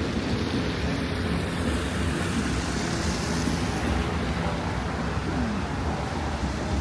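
Steady rumble of passing road traffic, with a low engine hum under a broad wash of noise.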